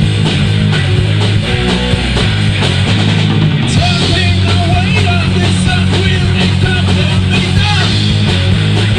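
Heavy metal band playing: distorted electric guitars over a steady low end and a regular drum beat. A lead line with wavering, bending notes comes in about four seconds in.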